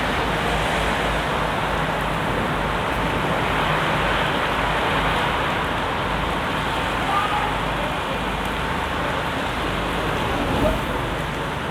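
Steady rain on a wet street with road traffic, a bus engine running among it; a brief knock near the end.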